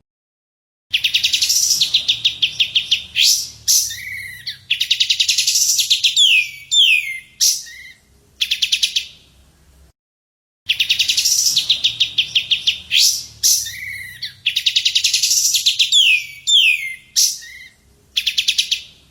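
Recorded songbird song used as a masteran track: a fast, rattling trill followed by several down-slurred whistled notes. The same phrase is played twice in a row with a short silence between, as a loop.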